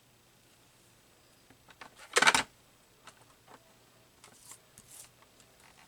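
Paper craft pieces and tools being handled on a tabletop: scattered small clicks and paper rustles, with one loud sharp clatter about two seconds in.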